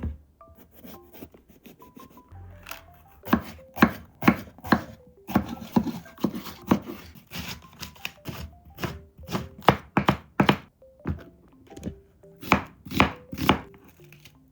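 Kitchen knife chopping vegetables on a cutting board: a run of sharp, uneven strokes, about two to three a second, with soft melodic background music underneath.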